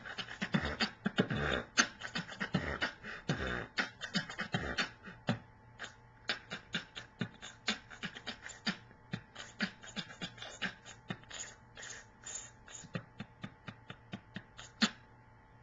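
Solo mouth beatboxing. A dense run of kick- and snare-like hits with bass sounds lasts about five seconds, then gives way to a lighter, rapid stream of clicks and ticks that stops just before the end.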